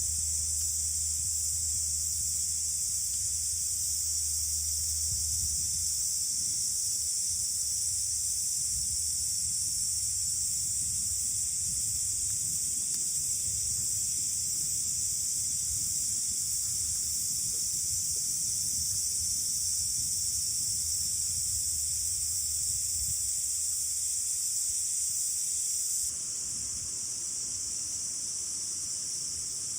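A steady, high shrilling chorus of insects such as crickets, with a low, gusty rumble of wind on the microphone beneath it.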